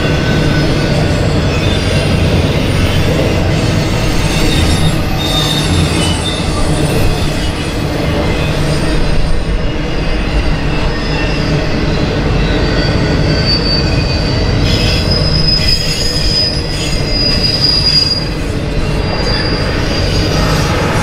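Intermodal freight train of trailer-carrying flatcars rolling past, a steady rumble of wheels on rail. Thin, high wheel squeals come and go, the longest in the second half.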